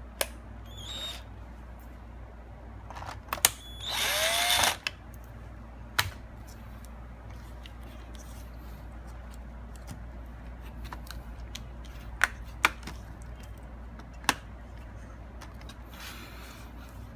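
A small electric screwdriver whirs for just under a second, its pitch gliding. Sharp clicks of laptop parts and screws being handled come a few times before and after.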